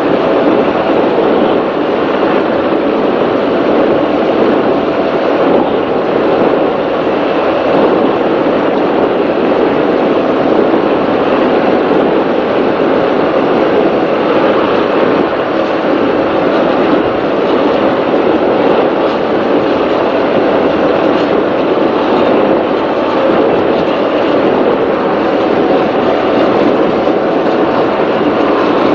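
Offshore racing powerboat running flat out: a loud, steady engine drone mixed with rushing noise, unchanging throughout.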